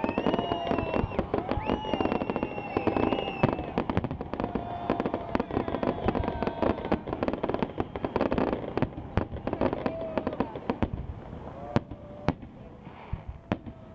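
Fireworks display: dense, rapid crackling and popping from crackling fountains and bursting shells. The crackle thins out to scattered separate bangs over the last couple of seconds.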